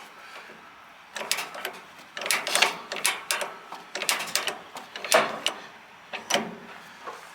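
Metal clinking and clattering in short irregular bursts, about six clusters of sharp clicks and knocks, as of tie-down chain and hardware being handled.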